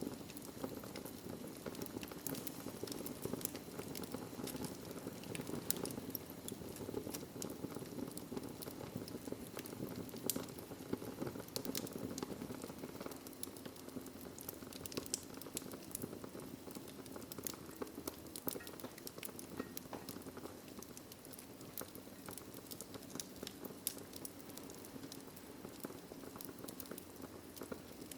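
Wood fire burning in a fireplace: a steady low roar of flames with frequent irregular crackles and pops.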